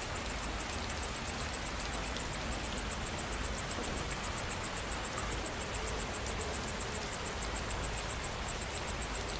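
Steady rainfall, an even hiss of falling rain, with an insect's high, evenly pulsing call repeating several times a second.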